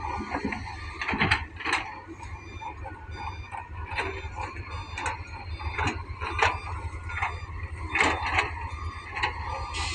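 Wheeled excavator's diesel engine running with a steady low rumble, under irregular sharp clanks and knocks, about one a second, from the machine at work.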